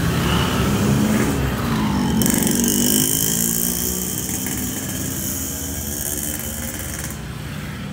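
Car engine running at idle, a steady low hum, with a brief glide in pitch about a second in. A high hiss comes in about two seconds in and cuts off about seven seconds in.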